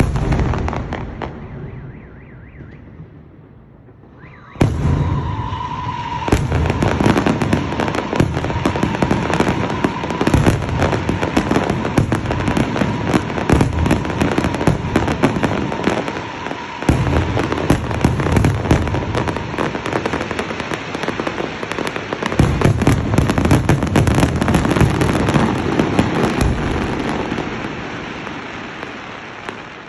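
Aerial fireworks display: one burst at the start, then from about four and a half seconds a dense, continuous barrage of bangs and crackling that fades toward the end. A steady high tone runs under the first half of the barrage.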